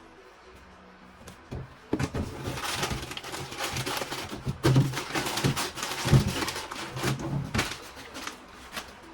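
Household objects being handled: a busy run of knocks, clinks and rustling as containers and fridge parts are moved about, starting about two seconds in, with two louder thumps about five and six seconds in.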